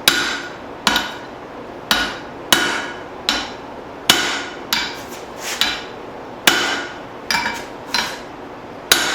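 Blacksmith's hand hammer striking a hot steel hammer head with a drift set in its eye, pulling the cheeks down around the drift. About a dozen blows come a little over one a second, each with a short metallic ring.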